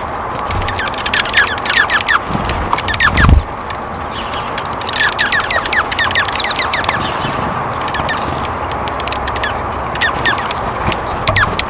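Small birds chirping and calling in quick clusters of short, high notes over steady background noise, with a low thump about three seconds in.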